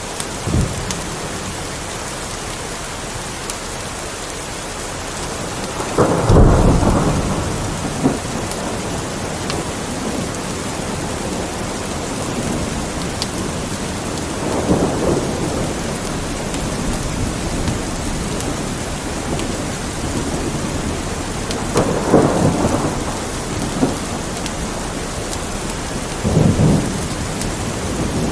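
Steady rain with four low rolls of thunder, the loudest about six seconds in, and a fireplace crackling with small scattered pops.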